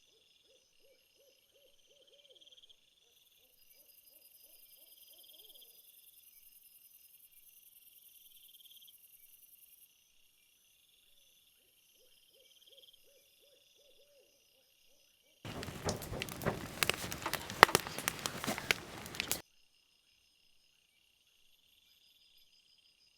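Crickets trilling steadily, with a low pulsing animal call twice, at the start and again past the middle. Near the end a loud crackling rustle lasts about four seconds.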